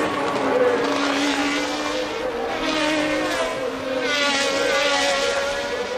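1982-era Formula One car engines running at high revs, the pitch drifting as cars pass and swelling louder a few times.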